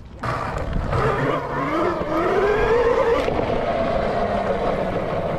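Dirt bike engine pulling away: it comes in just after the start and rises in pitch as it accelerates for about two seconds, then runs at a steady speed.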